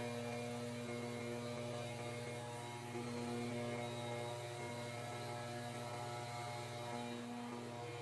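Small petrol engine of lawn equipment running steadily at constant speed, a continuous even drone.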